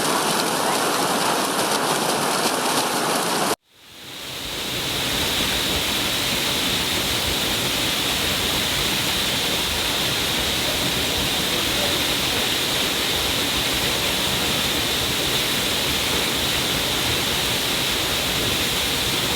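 Waterfall: a steady rush of falling water. About three and a half seconds in it cuts out suddenly and fades back in over a second as a different, brighter-sounding waterfall.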